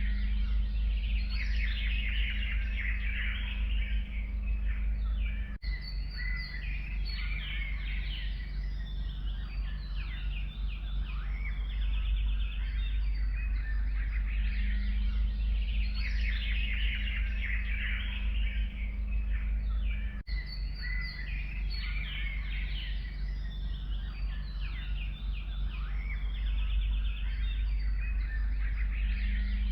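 A chorus of forest songbirds chirping, trilling and singing over one another without a break, over a steady low rumble. The sound dips out very briefly twice.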